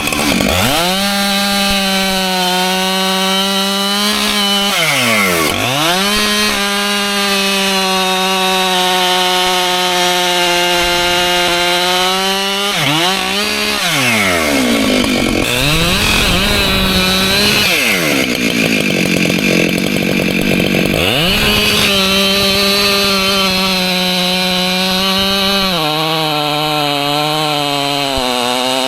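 Husqvarna two-stroke chainsaw running at high revs, cutting white oak logs. Several times the engine revs drop sharply and climb straight back. In stretches the pitch sags and turns rougher, as the chain bites into the wood under load.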